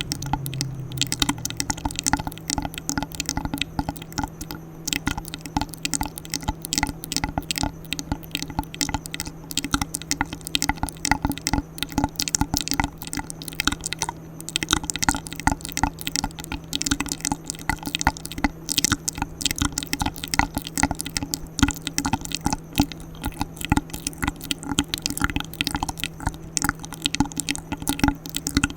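ASMR mouth sounds: a fast, irregular stream of wet clicks, smacks and pops made close to the microphone.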